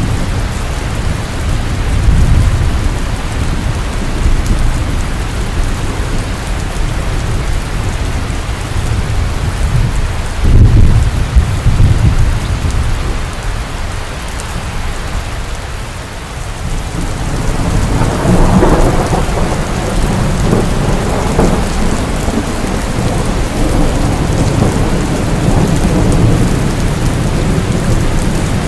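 Steady rain with thunder rumbling through it: a loud, deep rumble about ten seconds in, and another long rumble that builds a little past halfway and carries on to the end.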